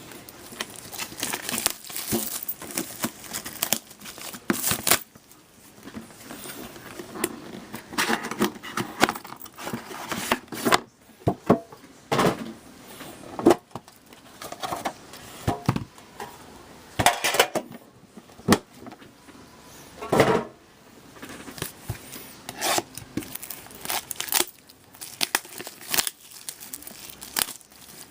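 Sealed trading-card box being opened by hand: plastic wrapper crinkling and tearing, with irregular clicks and rustles of cardboard and packaging being handled.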